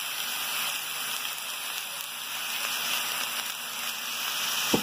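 Egg noodles and vegetables sizzling steadily in a hot kadai over a high flame, with one brief knock near the end.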